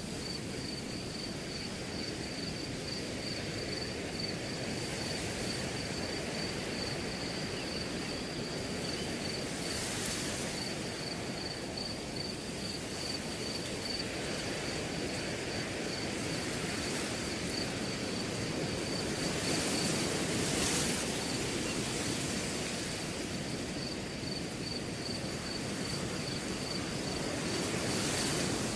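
Steady wind rushing through a grass field, swelling gently now and then, with a cricket chirping in a fast, even pulse throughout.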